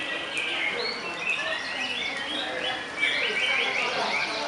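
Contest canaries singing: a fast, continuous run of repeated chirping phrases, louder from about three seconds in.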